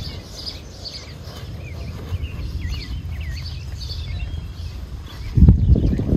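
Small birds chirping and twittering repeatedly over a steady low outdoor rumble. About five seconds in, a louder low rumble lasts for about a second.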